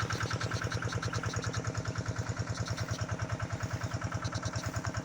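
Small stationary engine driving a deep-well irrigation pump, running steadily at idle-like speed with a rapid, even pulsing beat.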